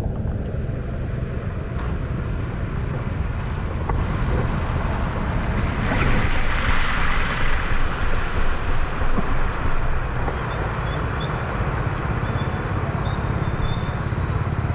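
A vehicle engine running steadily at low revs. About six seconds in comes a few-second rush of splashing water as the vehicle goes through the flooded ford.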